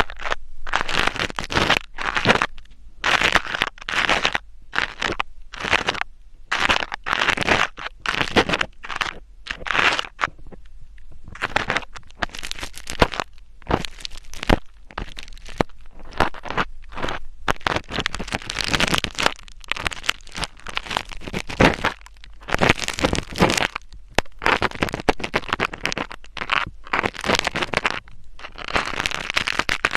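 Close-up ASMR scratching on the microphone: short crackly scraping strokes, repeated about once a second with brief pauses between them.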